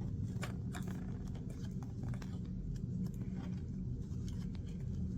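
Steady low hum with scattered faint light clicks and taps.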